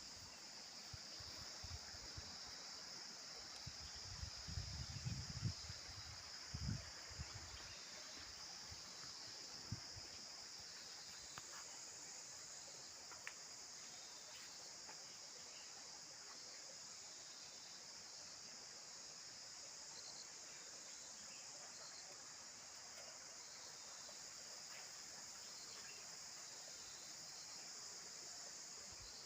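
Faint, steady chorus of insects with a high, even pitch. A few low thumps and rumbles come in the first several seconds.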